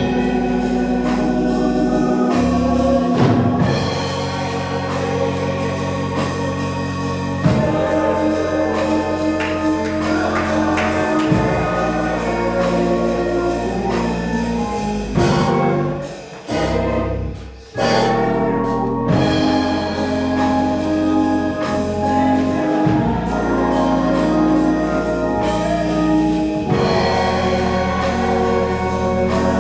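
Gospel music led by an organ playing held chords over a steady bass line, with a short break about two-thirds of the way through before it carries on.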